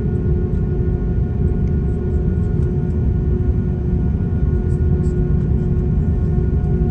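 Steady low rumble with a constant multi-tone hum on top: Airbus A340-600 aircraft noise heard from inside the cabin.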